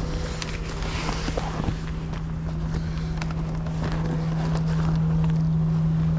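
Steady low hum of a car's engine and road noise, heard from inside the cabin as the car moves slowly.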